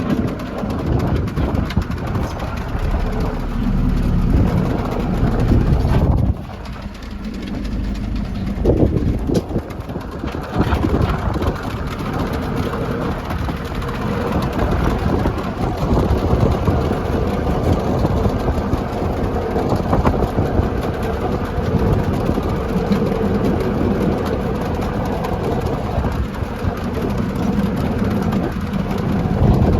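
A 50-horsepower Lovol tractor's engine runs steadily under load, driving a tractor-mounted snowblower through snow. The sound eases briefly about six seconds in, then goes back to the same steady run.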